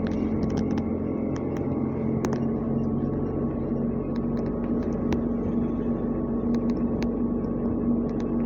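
ZiU-682G trolleybus running, heard from inside: a steady electrical hum at one pitch over a low rumble, with scattered light clicks and rattles.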